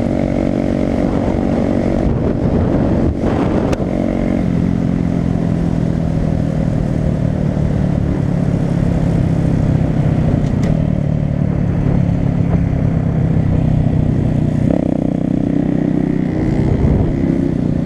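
Honda Grom's small single-cylinder motorcycle engine running under way. Its note steps down about four seconds in, holds steady, then changes again near fifteen seconds.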